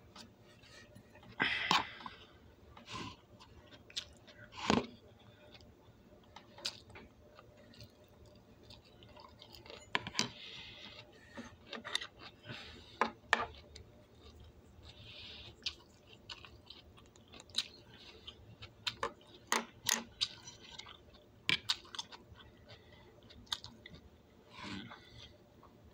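A person chewing broccoli close to the microphone: irregular crunches, some sharper and louder than others, between quieter chewing.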